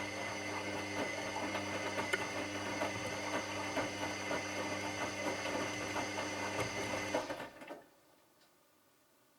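Washing machine running with a steady motor hum and light clicking and rattling, then stopping suddenly about seven seconds in.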